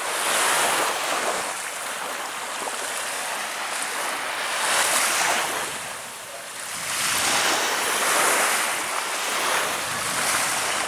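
Baltic Sea waves breaking and washing in, the surf noise swelling and fading every couple of seconds.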